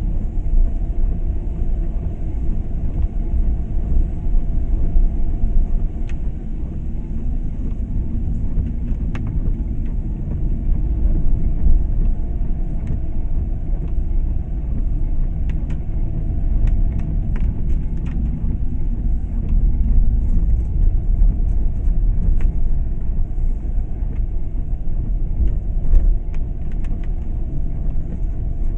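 A car driving, with a steady low rumble of road and engine noise and a few faint ticks.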